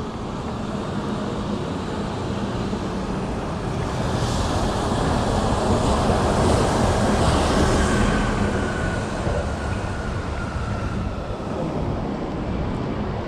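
City street traffic noise, with a vehicle passing close that swells about a third of the way in and fades away, and a faint whine as it goes by.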